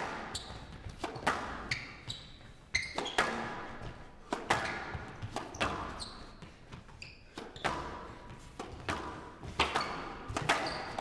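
Squash rally: the ball cracks off rackets and the walls about once a second, each hit ringing in a large hall, with shoes squeaking on the court floor in between.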